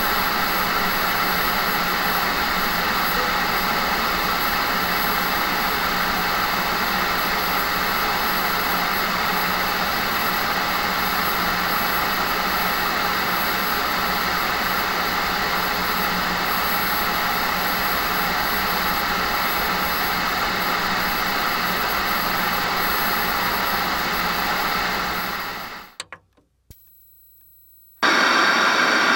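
A steady, unchanging machine noise, an even rush with a low hum under it, that fades out about 25 seconds in. A burst of static-like noise starts near the end.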